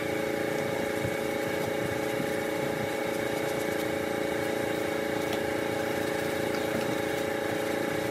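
A motor or engine running steadily at one even speed, with a constant pitch.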